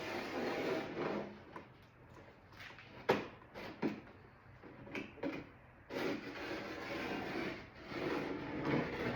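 Masking tape being laid on and rubbed down over a plastic car door panel: rubbing and scraping handling sounds, with a quieter stretch in the middle broken by several short clicks and knocks.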